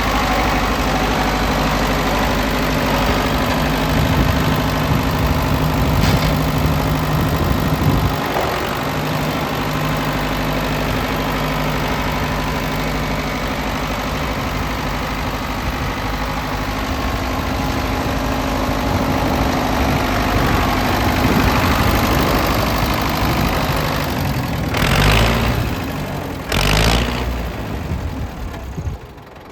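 Ford 5000 tractor engine running steadily at idle. Twice near the end it briefly gets louder.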